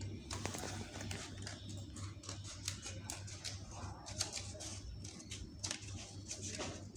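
Irregular scratching and ticking of handwork on cardboard, short clicks coming several times a second at an uneven pace, over a steady low hum.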